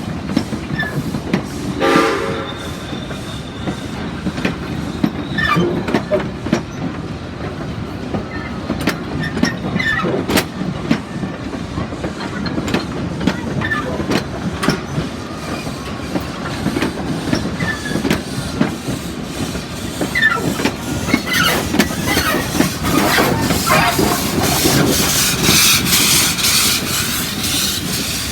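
Heritage train hauled by Rx-class steam locomotives running along the line, wheels clicking over rail joints over a steady rumble. A short whistle sounds about two seconds in, brief wheel squeals come later, and a hiss rises near the end.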